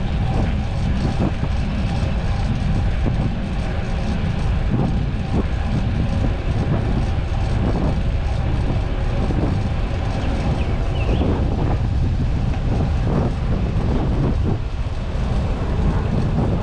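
Wind rushing over the microphone while riding a fixed-gear bike, a steady low rumble with no pauses.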